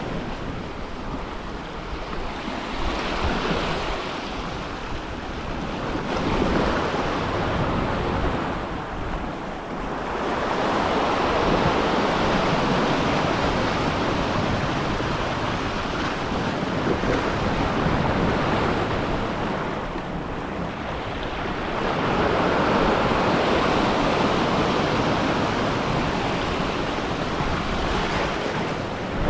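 Ocean waves surging in and washing back along a rocky shore, the rush swelling and easing in long surges, with wind on the microphone.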